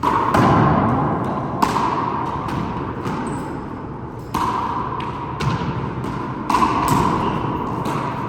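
Four-wall handball rally: the small rubber ball smacks hard against hands, walls and floor about eight times at uneven intervals. Each hit rings briefly in the enclosed court.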